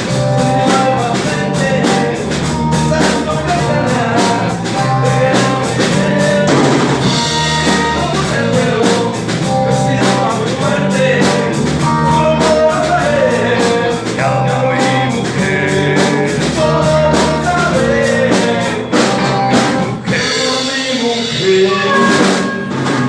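A live rhythm and blues band playing: a drum kit keeps a steady beat with cymbal ticks under a bending harmonica melody line.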